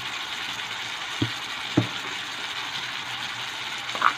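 Vegetables and textured vegetable protein sizzling steadily in hot oil in a small electric frying pan, with a few soft knocks.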